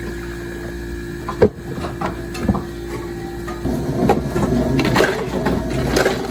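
Café work sounds: sharp knocks and clatter of hard objects over a steady machine hum. A louder, rougher mechanical noise starts a little past halfway.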